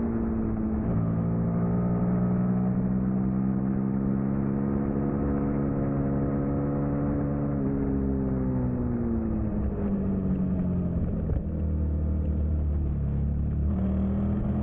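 Suzuki SV650's 90-degree V-twin engine heard from on board at racing speed. It holds steady high revs, then the revs fall away for a few seconds, with a brief break about eleven seconds in. Near the end the revs jump back up and climb under acceleration.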